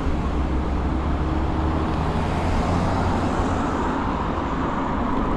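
Riding noise from an electric scooter in traffic: wind and road noise, with a low steady rumble that is heaviest in the first few seconds and then eases.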